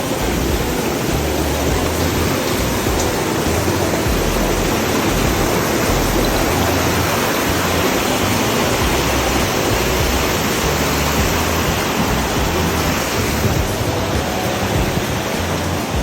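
Steady, loud rushing of a large waterfall: Dudhsagar Falls' water pouring down without a break.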